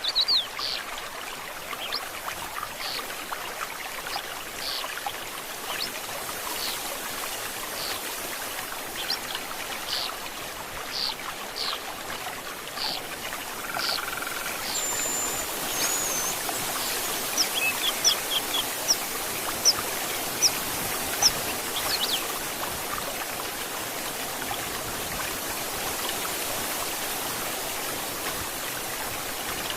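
Forest stream flowing steadily, with birds singing over it: a string of repeated short notes through the first half, then a held high whistle and a quick run of high chirps a little past the middle.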